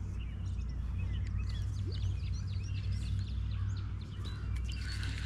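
Several songbirds chirping and calling in many short, quick notes, over a steady low rumble.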